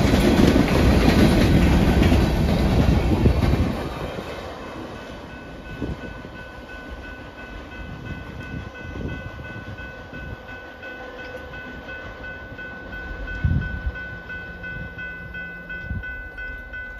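Empty coal hopper cars rolling by close up, their wheels clacking over the rail joints, loud for the first three and a half seconds. After that the train is heard going away at a distance, much quieter, with scattered knocks and a steady high-pitched whine from about five seconds in.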